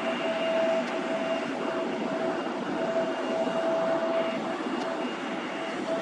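Turbofan jet engines of an Airbus KC-30B tanker running steadily: a constant rush with a steady whine that fades in and out a few times.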